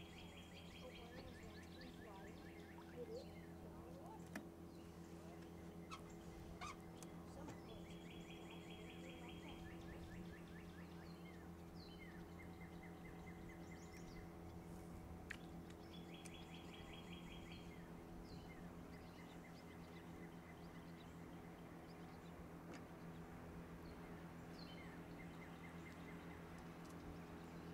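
Birds calling faintly outdoors: a rapid trill lasting a second or two, repeated every few seconds, with short high chirps in between. Under them runs a steady low hum with a few faint ticks.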